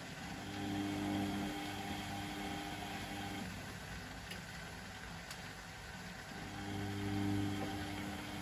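Privileg Sensation 952 S top-loading washing machine's drum motor running at a steady pitch in two runs of about three seconds, with a pause of about three seconds between them. This is the on-off pattern of the drum turning during washing.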